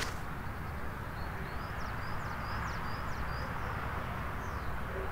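A small bird chirping a run of short, high, quick notes over steady wind noise.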